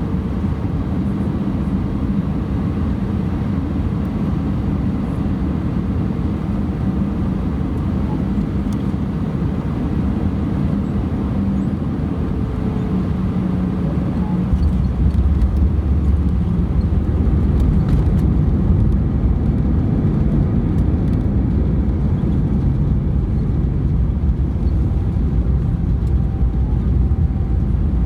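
Airbus A320 cabin noise: a steady rumble of engines and airflow, which grows louder and deeper about halfway through.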